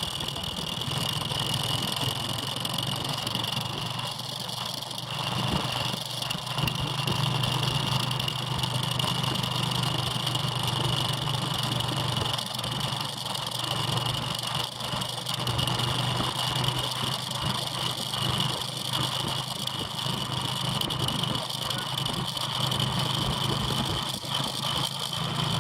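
Motorbike engine running steadily at an even pitch, with a steady high whine above it.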